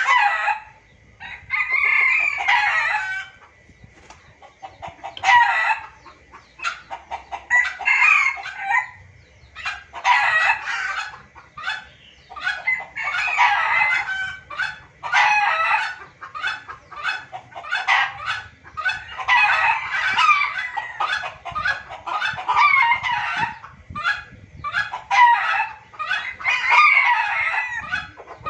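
Junglefowl calling over and over as a lure call, with about a dozen loud crows and cackles, one every two seconds or so, and quick short clucks between them.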